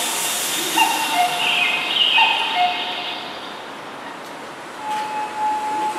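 Keihan 2400-series electric train running slowly into the platform as it brakes to a stop. Short high-pitched brake squeals in the first few seconds, then one steady squeal lasting about a second near the end.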